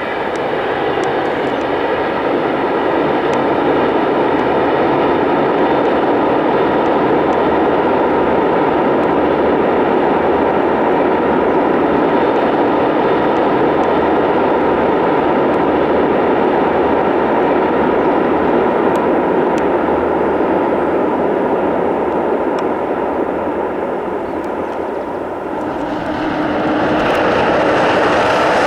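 A train running at speed: a loud, steady rushing noise with a faint steady whine over it. It dips briefly near the end, then comes back with a new low tone.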